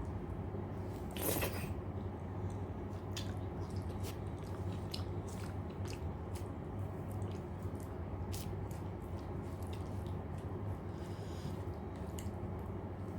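Close-up eating sounds of a person chewing rice, dal and fried vegetables: wet mouth clicks and smacks scattered through, with one louder, longer smack about a second in, over a steady low hum.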